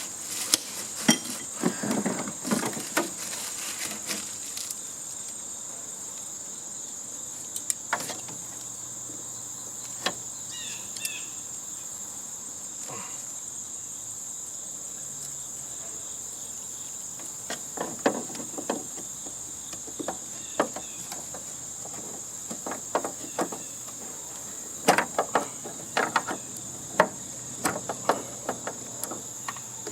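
A steady high-pitched insect chorus, typical of crickets, runs throughout. Over it come scattered clusters of knocks, clicks and clanks from hand tools working on the sheet-metal and plastic casing of a heating and air conditioning unit being taken apart.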